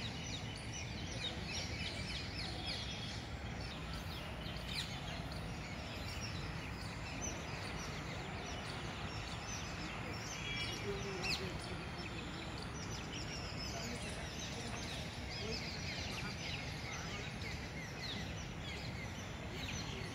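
Many birds chirping and calling over a steady low background noise.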